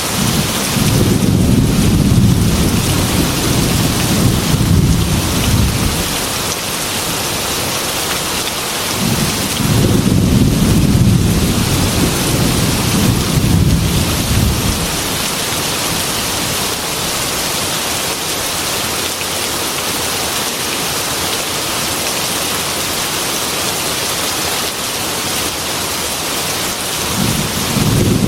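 Heavy rain beating steadily on a glass window, with two long, low rolls of thunder in the first half and a third beginning near the end.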